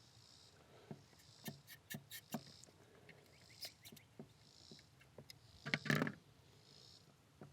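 Scattered light clicks and knocks of hand tools and small parts being handled in an engine bay, with a louder clatter about six seconds in.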